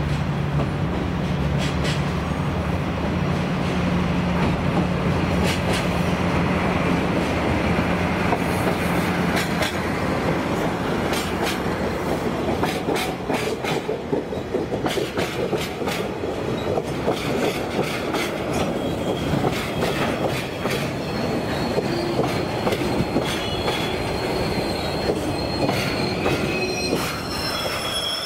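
A DD51 diesel-hydraulic locomotive passes with its engine droning steadily, fading after about ten seconds, then a long string of tank wagons rolls by with a steady rumble and wheels clacking over the rail joints. Near the end the wagon wheels begin to squeal.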